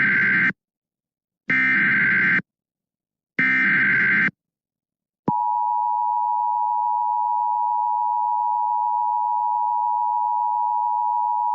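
Emergency Alert System signal announcing a flash flood warning. It opens with three screechy data bursts, about a second each and a second apart. After a short gap comes a steady two-tone attention signal that starts abruptly and holds.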